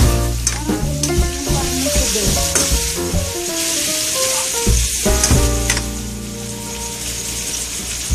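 Pork belly pieces sizzling in hot oil in a wok, stirred with a spatula that clicks against the pan. Background music with steady notes plays underneath.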